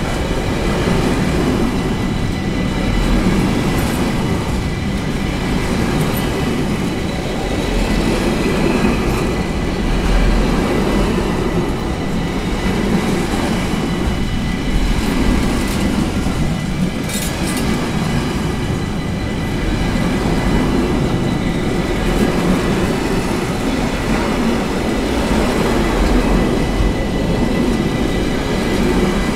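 Freight train of container flat wagons rolling past at close range: a loud, steady rumble of steel wheels on the rails, with a thin steady high whine over it.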